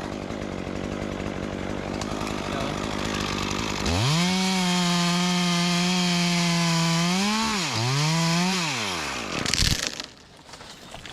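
Stihl chainsaw running at part throttle, then opened up to a high steady scream about four seconds in as it cuts through a tree. The note dips once and recovers, then drops away as the throttle is released. A brief loud burst of noise follows near the end.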